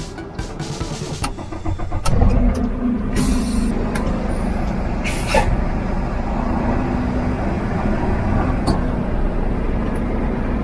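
Semi truck's diesel engine running, getting louder about two seconds in and then holding steady under power as the truck tries to get moving in snow.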